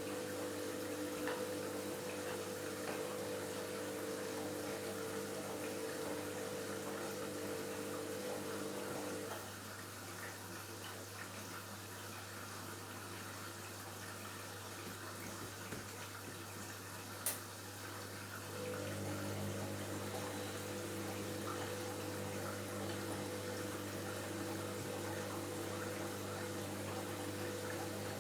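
Washing machine running, with water moving inside and a steady motor or pump hum. The hum cuts out about nine seconds in, leaving just the water. A single sharp click comes near seventeen seconds, and the hum starts up again about two seconds later.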